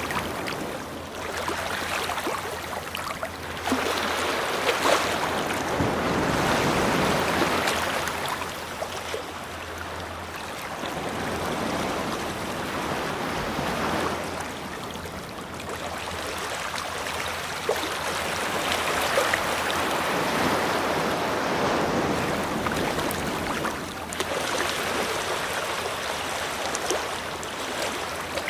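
Ocean surf breaking and washing up a beach, swelling and fading every few seconds.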